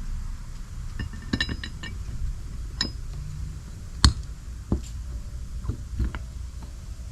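Metal engine parts and tools clinking against each other during engine assembly: a quick cluster of light clicks, then several separate sharp strikes, the loudest about four seconds in.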